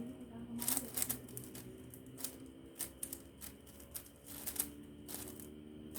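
5x5 puzzle cube being turned by hand, its layers clicking and clacking in quick, irregular runs.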